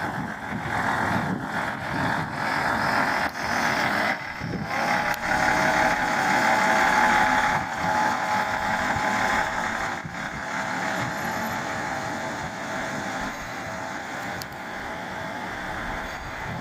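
Ise Railway Type III diesel railcar running slowly by. The sound builds to its loudest about seven seconds in, with a steady high hum over the rumble in the middle, then fades away.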